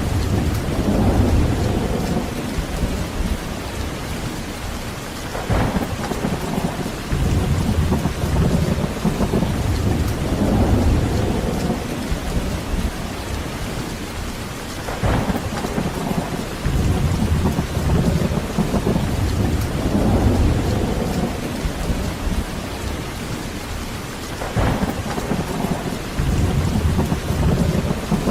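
Heavy rain falling steadily with thunder: low rolling rumbles swell and fade several times, with three sharper thunderclaps about ten seconds apart.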